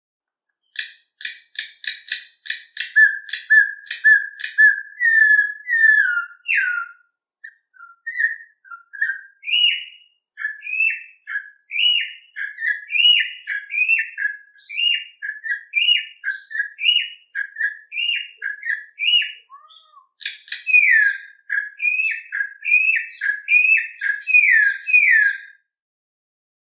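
A songbird singing a long, fast song of clear whistled notes and quick sweeping trills in repeated phrases, starting about a second in.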